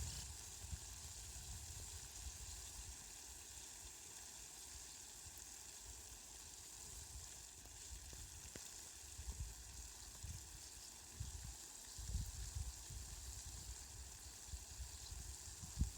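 Steady, faint hiss of falling rain, with a few brief low rumbles.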